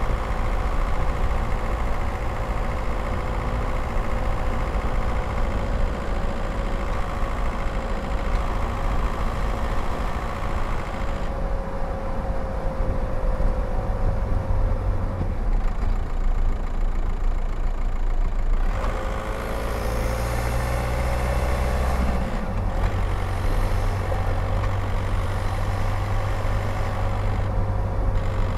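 Skoda Octavia's 1.9 TDI four-cylinder turbodiesel running at steady driving speed, with wind and road rumble on the window-mounted microphone. A little past halfway the engine note dips, then climbs again.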